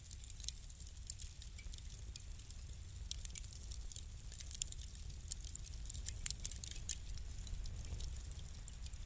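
Wood fire burning in a fireplace, crackling with irregular sharp snaps and pops, busiest in the middle, over a low steady rumble.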